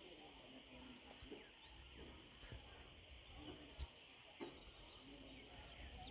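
Faint outdoor ambience of birds: scattered short chirps over a steady high background hum.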